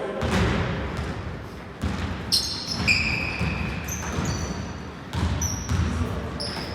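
Basketball bouncing on a gym floor during a game, with several short high squeaks of sneakers on the court from about two seconds in.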